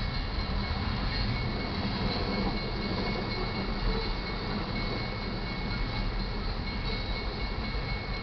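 Cars of a loaded coal train rolling past at speed: a steady, heavy rumble of steel wheels on rail, with a thin, steady high tone above it.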